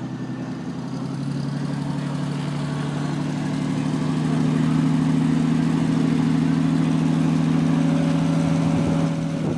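Triumph TR sports car engine idling steadily while it is being tuned, its even note growing louder over the first few seconds, then holding steady before easing off at the end.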